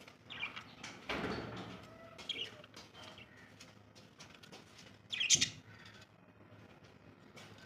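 Small pet birds chirping in short, scattered calls, with brief scratchy rustles, perhaps wing flutters; the loudest burst comes about five seconds in.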